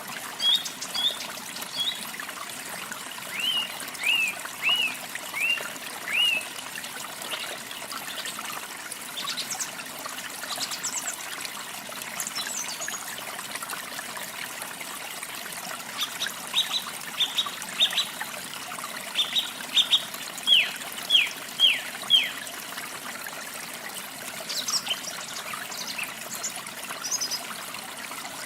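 Small birds chirping in runs of short, high notes, some falling in pitch, over a steady trickle of running water; the chirping comes in bursts a few seconds in and again about two-thirds of the way through.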